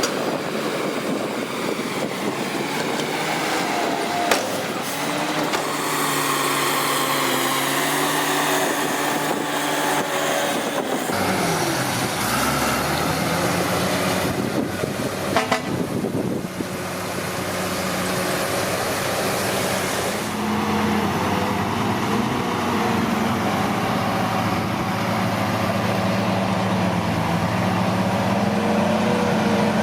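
Heavy diesel earthmoving machinery working: a bulldozer and a dump truck, their engine pitch shifting as the load changes, with a few sharp clanks and a stretch of hiss about halfway through.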